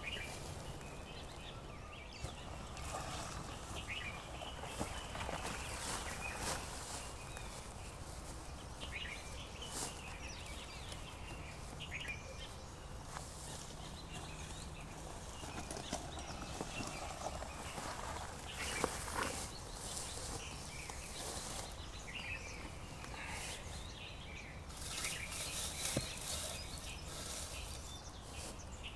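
Birds calling with short chirps here and there over a steady low background. Scattered crackling clicks run throughout, coming in thicker bunches about two-thirds of the way through and again near the end.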